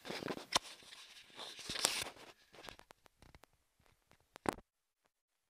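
Rustling and handling noise with a run of sharp clicks and knocks, which stops abruptly about four and a half seconds in.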